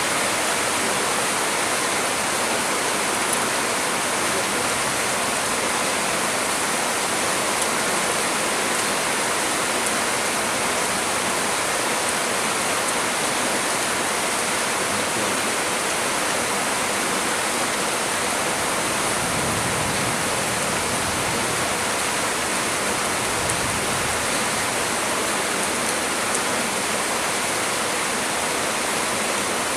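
Heavy storm rain pouring steadily in a dense, even hiss. A low rush of wind swells briefly about two-thirds of the way through.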